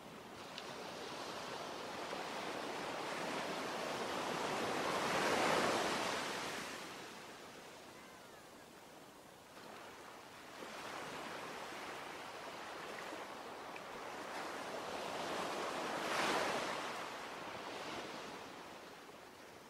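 Sea waves on a shore: two slow swells of rushing surf, each building, breaking and washing back, about ten seconds apart.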